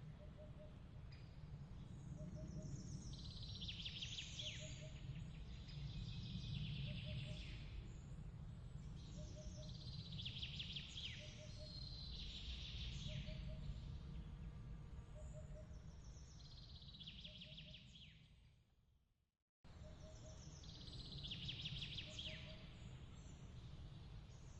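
Ambience track of repeated high chirping calls over a steady low rumble, with a soft pip repeating about once a second. About three-quarters of the way through, it fades out to a moment of silence and then starts again abruptly, like a loop restarting.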